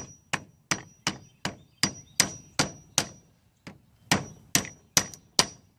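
Hammer tapping a car battery cable terminal down onto the battery post, sharp metallic knocks about two or three a second with a short high ring after many of them and a brief pause midway. The terminal is a tight fit because it has been expanded with shims to cure a loose connection.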